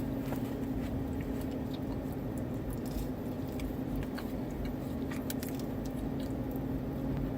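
Steady low hum inside a parked car, with faint scattered clicks and rustles of someone eating and handling food.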